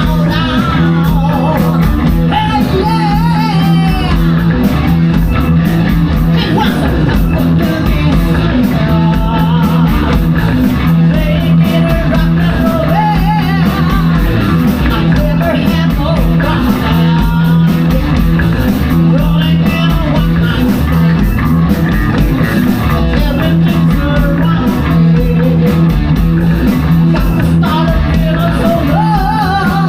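Live rock band playing loud and steady: drums, electric guitar and bass, with a singing voice over them.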